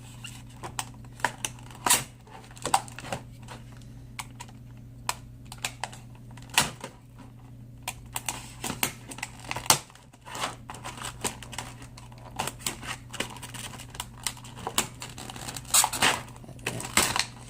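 Irregular sharp clicks, taps and crackles of a plastic blister pack and card backing being worked open by hand to free a die-cast toy car, over a steady low hum.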